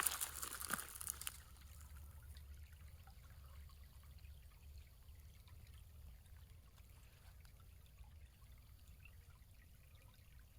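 Small creek trickling faintly and steadily. A brief crackly rustle comes in the first second or so.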